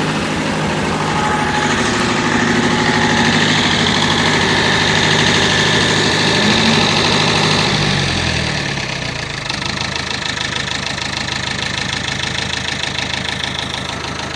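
David Brown 1490 tractor's diesel engine running at raised revs; about eight seconds in the revs fall and it settles into a steady idle.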